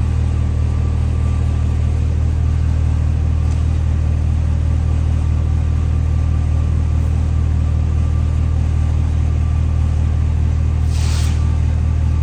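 Steady low engine drone running at an even pitch and level, with a brief hiss about eleven seconds in.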